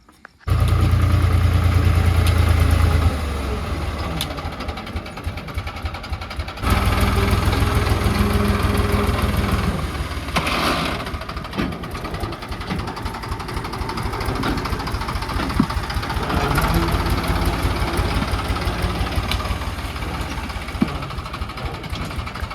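Diesel tractor engine running hard under load, with a strong low rumble. It comes in suddenly at full loudness, eases after a few seconds, then surges loud again from about seven seconds before settling to a steadier run.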